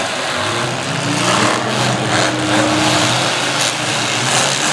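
Demolition derby cars' engines running together, one revving up about half a second in and holding high, with a few short knocks among the engine noise.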